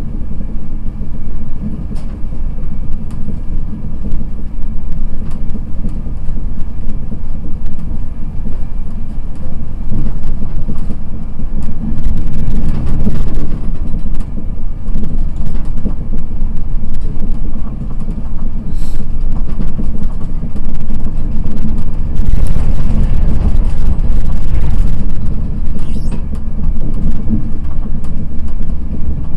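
Express passenger train running at speed, heard inside the coach: a steady low rumble of wheels on rail, swelling into a louder rush about twelve seconds in and again around twenty-two seconds.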